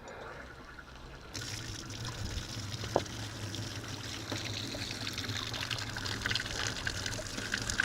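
Water starts running about a second and a half in, then pours steadily into the cattle water setup, with one short click partway through.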